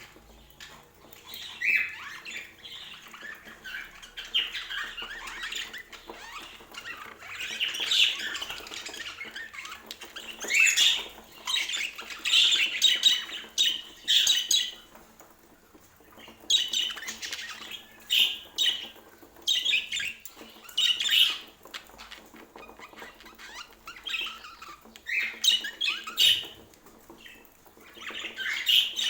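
Budgerigars chattering and chirping in repeated bursts, with sharp clicks and rustles in between.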